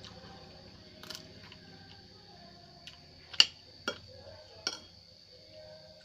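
Cutlery clicking sharply against a plate a few times while eating noodles and rice, the loudest click about three and a half seconds in.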